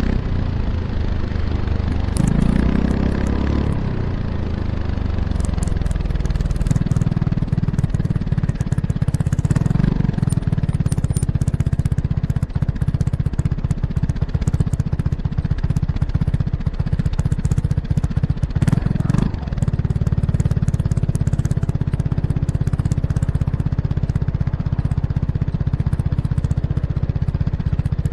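Kymco X-Town scooter's Arrow Urban exhaust with the dB killer fitted, heard close to the muffler while riding: the engine note rises as it accelerates over the first few seconds, then holds steady at cruising speed with a few brief swells in revs.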